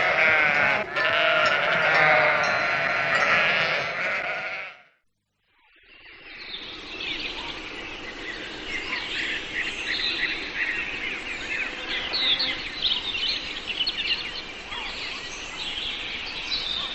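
Loud, repeated bleating with a wavering pitch for the first four and a half seconds, then a sudden cut to silence. After that comes a steady outdoor background with many small birds chirping.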